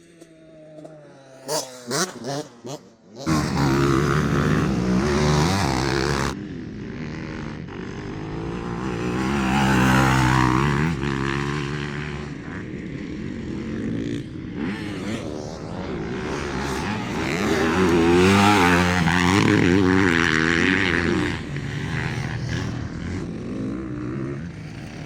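Motocross bike engine revving hard, its pitch rising and falling again and again as it accelerates and backs off. It cuts in suddenly about three seconds in, after a few short, quieter pitch glides.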